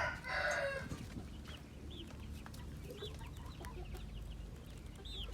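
Chickens calling: the end of a loud rooster crow fades out in the first second, then short, high chirps and clucks are scattered through the rest.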